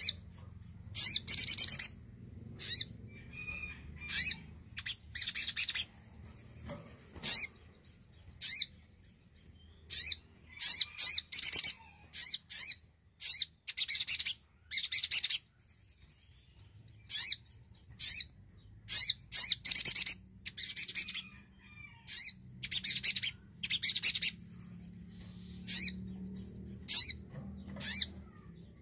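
Spiderhunter (sogok ontong) calling: clusters of sharp, high chirps, each burst about half a second long, repeated every second or two. In some gaps between bursts there is a thin, steady high trill.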